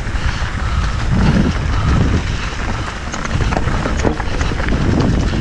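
Wind buffeting the microphone of a mountain bike riding down a dirt trail, with tyre noise and scattered clicks and rattles from the bike over rough ground.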